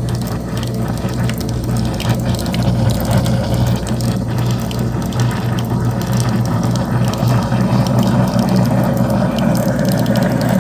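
Garbage disposal motor running with a steady low hum and a rattling mechanical noise, water trickling into it, while a foaming cleaning pod works through the grinding chamber.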